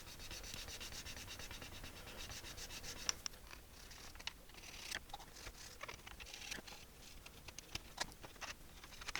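Quick back-and-forth rubbing and scrubbing on the plastic inside of a computer case, cleaning off dirt and corrosion. The rapid strokes give way after about three seconds to scattered light clicks and taps of handling.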